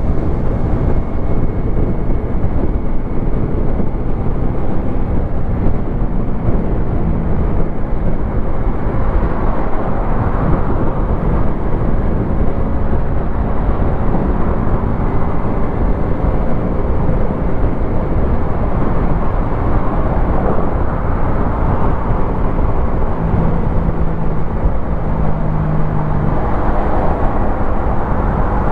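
Wolf Classic 125cc motorcycle engine running steadily while riding, with wind and road noise; the engine note shifts in pitch a few times as the revs change.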